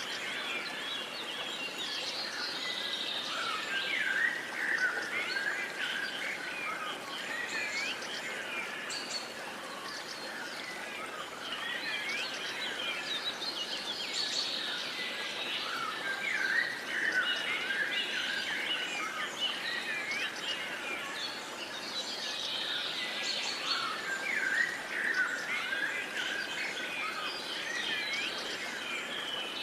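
Many birds singing together, a busy chorus of short chirps and whistled notes that swells into denser bursts about every ten seconds over a faint hiss of outdoor background.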